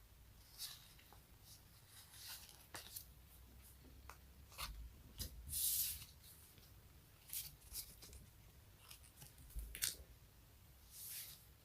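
Faint sticky peeling and crackling of an adhesive surface being pulled apart, in short separate strokes every second or so, with one longer peel about halfway through.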